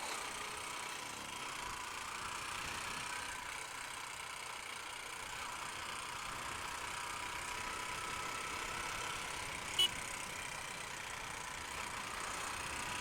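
Honda Unicorn motorcycle riding along at a steady speed: engine and wind/road noise run evenly together, with a single short click about ten seconds in.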